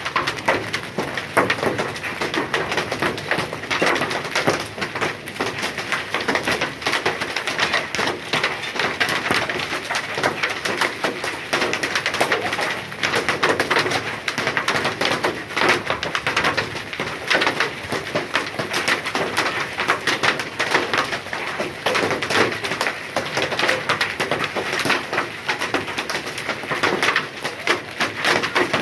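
Hailstones falling and clattering in a dense, continuous patter of many small impacts.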